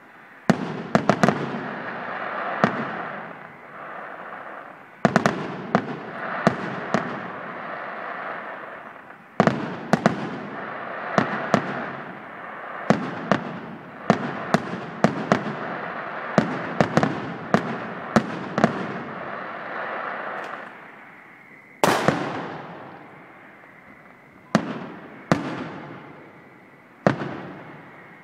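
Aerial firework shells bursting in a large display: dozens of sharp bangs, many in quick clusters, with crackling between them. After about 21 s the bursts thin out to a few single bangs.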